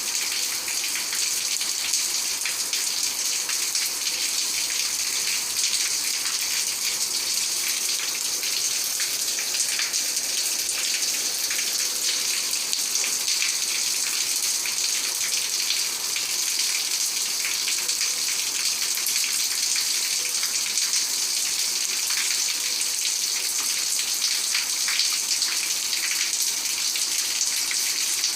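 Heavy rain falling steadily, a dense, even hiss of drops with fine patters throughout.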